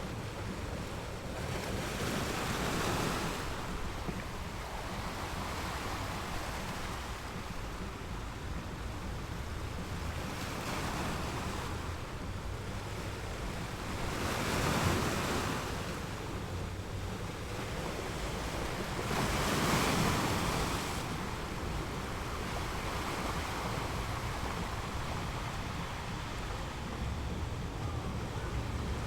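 Ocean waves rolling in and breaking on a shore, a steady rush of surf that swells with each wave. The biggest waves come a couple of seconds in, about halfway through and a few seconds later.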